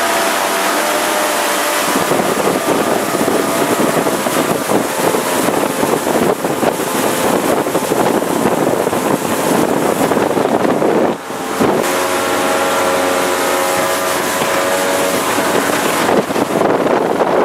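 Jet boat engine running under way, its steady hum coming and going under heavy wind rush on the microphone. The wind drowns the engine for long stretches, with a brief drop-out about eleven seconds in.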